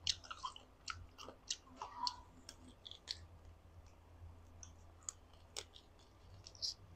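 Close-up mouth sounds of biting and chewing tough, chewy boiled chicken with its skin on: scattered faint wet clicks and smacks over a faint low hum.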